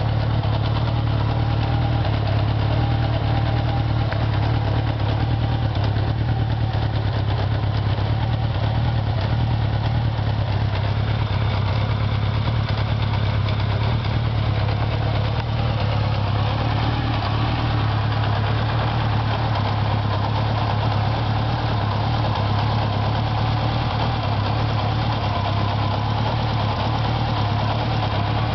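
Honda CB750K's air-cooled inline-four engine idling steadily.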